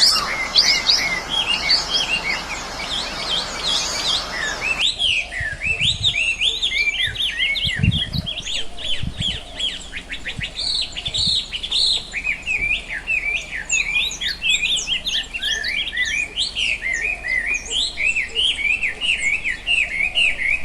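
Many small songbirds chirping and twittering at once, a dense chorus of short rising and falling chirps. About five seconds in the recording changes abruptly to a cleaner chorus, with a few soft low thumps around eight seconds.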